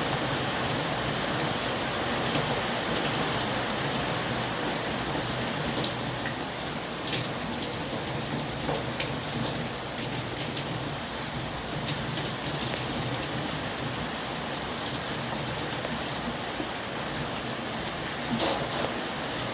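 Heavy rain falling steadily, a dense hiss of rain with many single sharp drop hits scattered through it.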